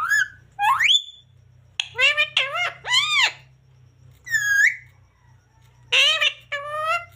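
Pet green parrot calling: a string of short, shrill calls in small groups, with a quick rising whistle about a second in and a single high whistled note midway.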